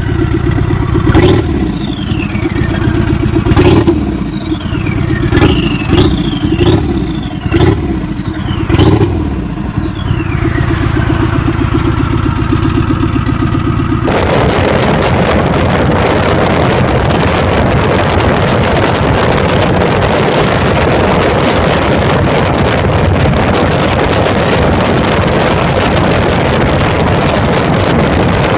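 A motorcycle engine revved again and again with sharp throttle blips, each one falling back in pitch, then settling to a lower run. About halfway through it cuts to a steady, loud rushing noise.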